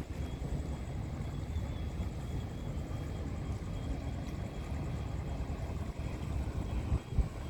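Wind rumbling and buffeting on the microphone, with a faint steady high whine over it and a brief knock near the end.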